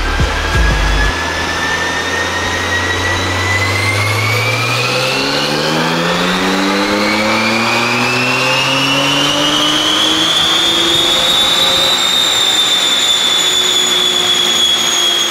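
Porsche 992 Carrera GTS twin-turbo flat-six pulling on a chassis dyno through a valvetronic sport exhaust. The revs climb smoothly for about twelve seconds, then hold near the top and ease off slightly.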